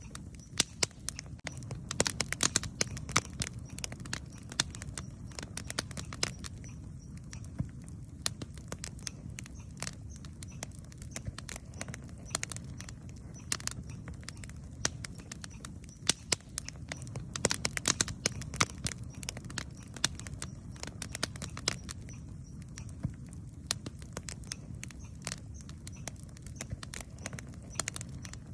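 Wood campfire crackling, with many sharp, irregular snaps and pops over a steady low rumble.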